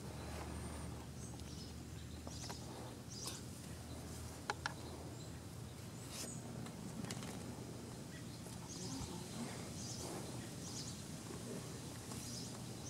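Outdoor yard ambience: birds chirping now and then over a steady low background hum, with a couple of sharp clicks about four and a half seconds in.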